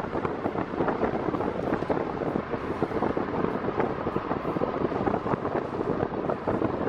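Steady road and wind noise of a moving car, with wind buffeting the microphone.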